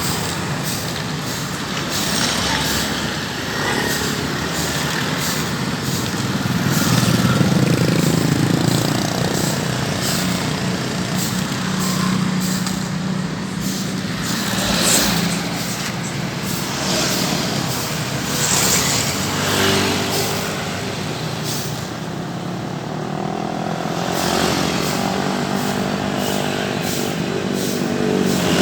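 Road traffic: cars, trucks and motorcycles running and passing on the street. Engine pitches rise and fall as vehicles go by, about twenty seconds in and again near the end.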